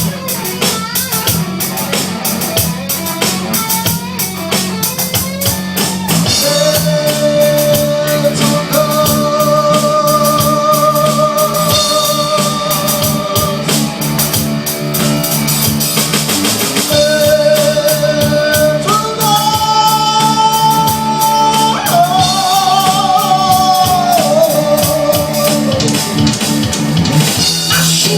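Rock or heavy metal band playing: electric guitars and drum kit, with long held lead notes with vibrato coming in about six seconds in.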